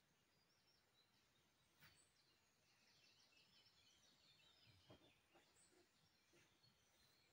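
Near silence with faint bird chirps and a few soft knocks.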